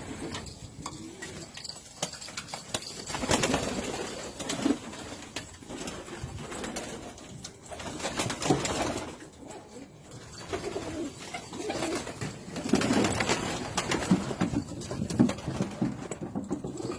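Domestic pigeons cooing repeatedly in a small enclosed loft, with a few louder bursts of noise.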